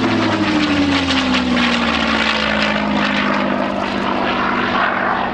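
Early P-51 Mustang's Allison V-1710 V-12 engine running at power on a display pass. The engine note falls steadily in pitch as the aircraft goes by.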